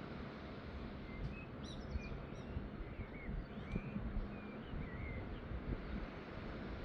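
Small birds chirping in a run of short calls over a steady rushing background of outdoor noise, with a faint low hum underneath.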